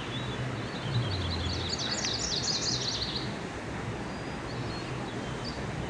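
A songbird singing a fast run of high chirps, starting about half a second in and lasting about three seconds, with a few short high notes near the end, over a steady low outdoor rumble.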